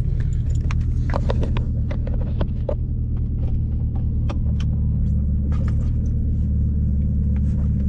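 A 2010 Camaro SS's straight-piped 6.2-litre V8 idling with a steady deep rumble. Scattered clicks and knocks from things being handled sound over it.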